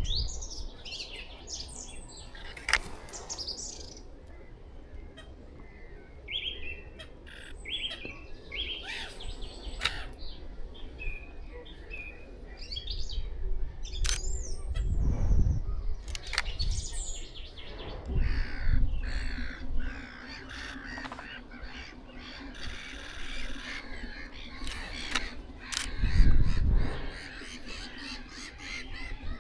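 Birds calling all through, a busy mix of harsh caw-like calls and higher chirps, with black-headed gulls from a nesting colony among them. A few low thumps come and go, and a faint steady hum starts past the middle.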